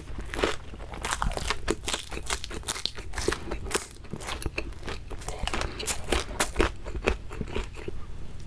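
Close-up chewing of crispy fried shrimp: a dense run of crunchy, crackling bites and chews.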